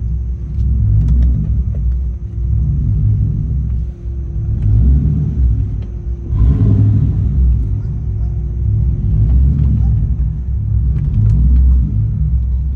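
2004 Ford Mustang GT's 4.6-litre V8 on a straight-piped exhaust rumbling while driving, heard from inside the cabin. It swells and eases off several times.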